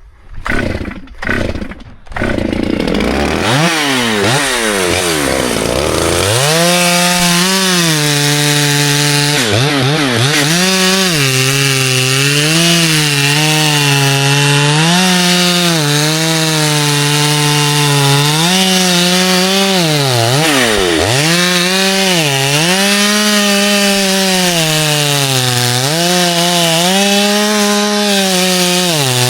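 A chainsaw comes to life about two seconds in, after two short bursts, and revs up. It then runs at high throttle cutting through wood, its pitch sagging repeatedly as the chain bites in under load and rising again as it frees.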